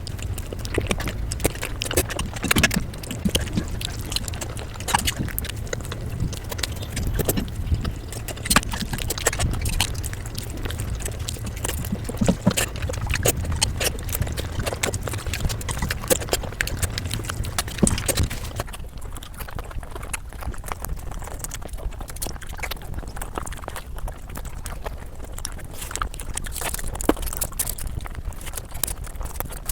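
Close-miked eating sounds: a person chewing and smacking, with many quick wet mouth clicks and crunches over a low hum. The sound shifts about two-thirds of the way through, as if to a different bite or clip.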